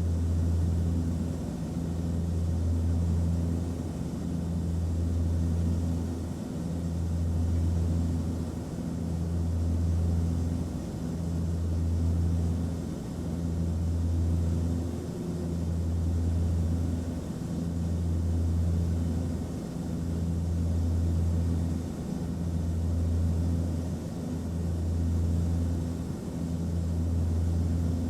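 Airplane cabin noise: a low engine drone with a soft hiss over it, swelling and dipping about every two seconds.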